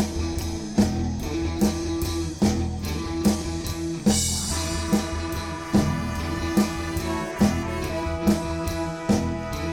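Live band playing an instrumental passage: drum kit keeping a steady beat with a hit about every 0.8 s, bass and electric guitar, with a cymbal crash about four seconds in.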